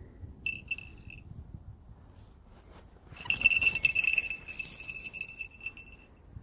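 Falconry bell on a northern goshawk jingling as she moves about in the snow: a short jingle about half a second in, then a longer run of jingling from about three seconds in.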